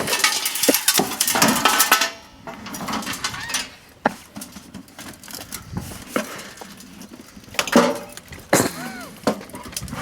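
Metal clanking and rattling of a toaster oven's sheet-metal body being pried and pulled apart by hand: a dense run of clanks for the first two seconds, then quieter scattered knocks with a few sharper clanks later.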